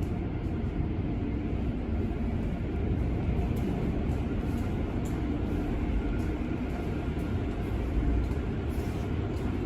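Car wash tunnel machinery running: a steady low rumble with a faint hum over it.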